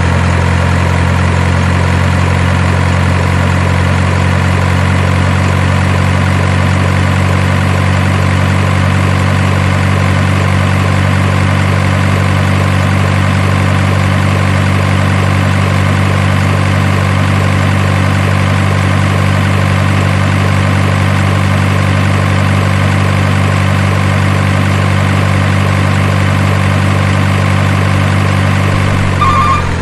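Truck engine idling steadily, with an even low hum that does not change pitch.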